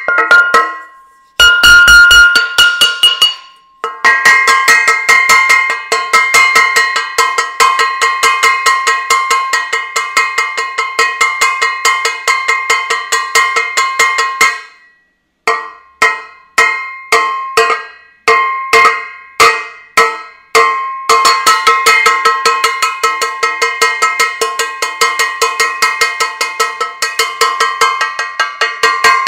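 A metal saucepan banged over and over, each blow ringing. It comes in fast runs of several strikes a second, with short pauses, and a stretch of slower single blows about halfway through.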